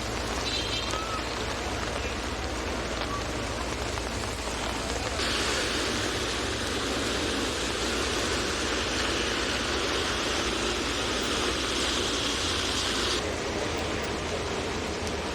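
Rain falling on an umbrella and the wet street, over a low rumble of city traffic. A louder hiss sets in suddenly about five seconds in and cuts off about eight seconds later.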